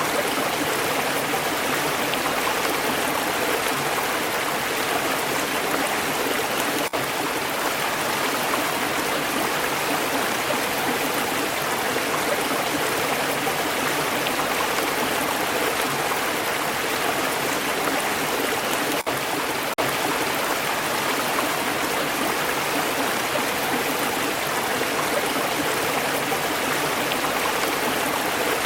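Stream water flowing steadily over stones, an even rushing and burbling, with a few split-second dropouts.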